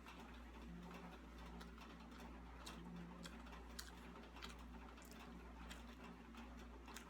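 Faint eating sounds: scattered soft clicks and ticks from chewing and utensils, over a low steady hum.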